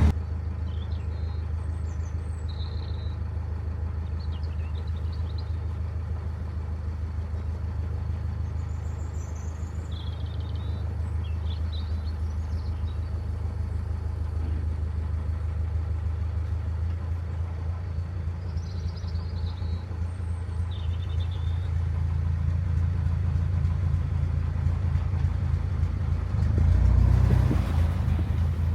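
Narrowboat's diesel engine running steadily with a low thrum, briefly louder near the end. Small birds chirp faintly now and then.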